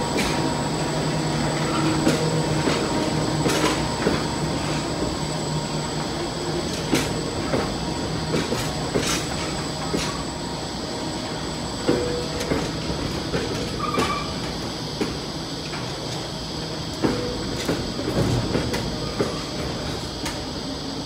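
Freight train wagons rolling past steadily, the wheels giving irregular clicks and knocks over the rail joints, with a faint squeal now and then.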